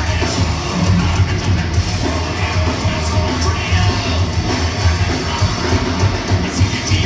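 Thrash metal band playing live at loud volume: distorted electric guitars, bass and drums in a dense continuous wall of sound, with shouted vocals.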